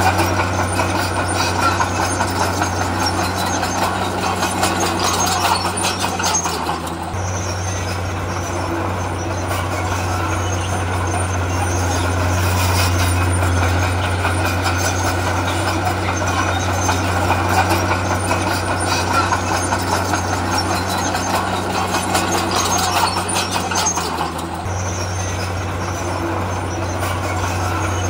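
Heavy earthmoving machine's diesel engine running steadily, with clatter over it; the engine note drops briefly about seven seconds in and again about three-quarters of the way through.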